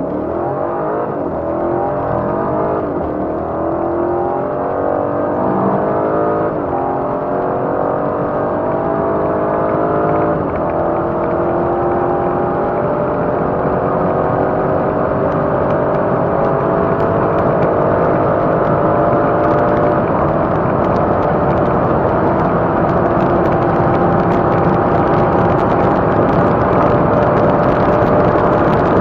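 BMW X6 xDrive50i's twin-turbo V8 under hard acceleration, its note climbing through the gears. Quick upshifts drop the pitch about 3, 6 and 10 seconds in and again near 20 seconds, each gear pulling longer than the one before. Heavy wind and road noise rise with the speed.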